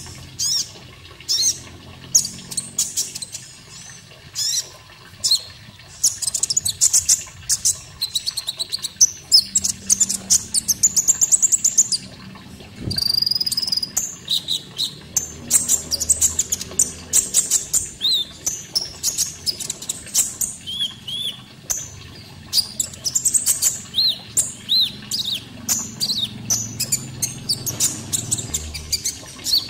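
Konin bird singing: bursts of high, rapid chirps and trilled phrases with short pauses between them. A faint low wash of running water lies underneath.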